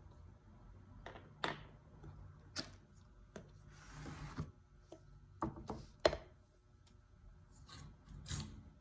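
Scattered light clicks and taps of hand tools and a stained-glass panel being handled on a work surface, with a short brushing noise about four seconds in.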